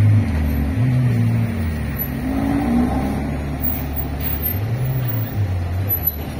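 Lamborghini Huracán Spyder's V10 engine pulling away at low speed, its note stepping up and dropping back twice as it drives off.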